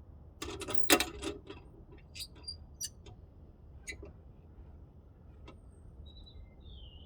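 Clinks and a rattle from metal tools or parts being handled, loudest about a second in, followed by a few scattered clicks. A bird chirps briefly near the end.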